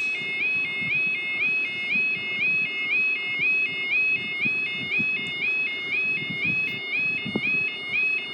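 UK level crossing audible warning alarm sounding its high two-tone warble, stepping rapidly and evenly between two pitches, the signal that the barriers are down and a train is due.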